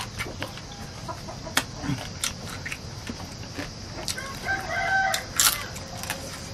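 Crunching and clicking of fried crab being bitten and chewed, with a louder crunch about five and a half seconds in. A rooster crows once in the background, about four seconds in.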